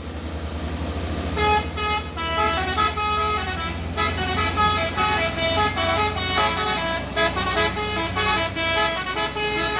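Heavy truck engine running low and steady while a multi-tone musical air horn plays a tune over it, starting about a second in, the notes stepping up and down.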